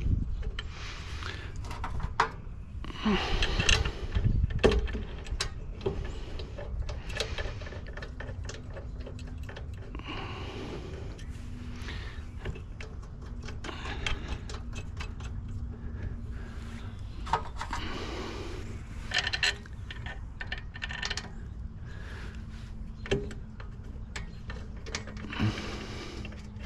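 Metal pump parts and tools being handled at a workbench, with scattered clinks, knocks and rustling. A steady low hum comes in about ten seconds in.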